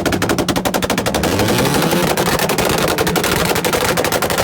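A vehicle engine with a loud open exhaust running, a fast, even train of pops.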